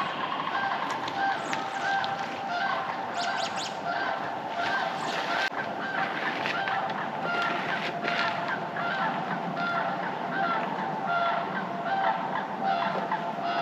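A flock of sandhill cranes calling all around, many calls overlapping without a break.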